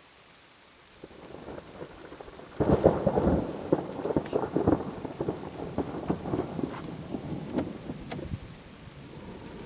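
Thunder: a low rumble starts about a second in, breaks into a loud crackling clap at about two and a half seconds, then rolls on in a string of crackles and fades.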